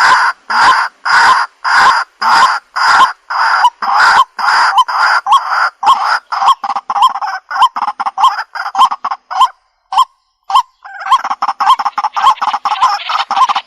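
Waterhen (jal murgi) calling: a steady series of harsh notes, about two a second, that quickens into a run of shorter, faster notes. It breaks off briefly about ten seconds in, then resumes as a dense, rapid chatter.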